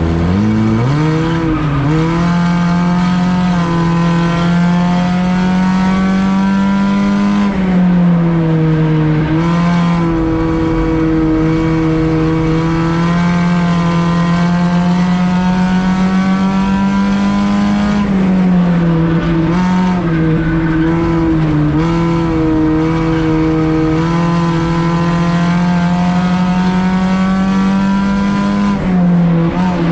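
Race car's engine heard from inside its stripped cabin, held at high revs. The pitch drops and climbs back three times, about ten seconds apart, with road and tyre noise underneath.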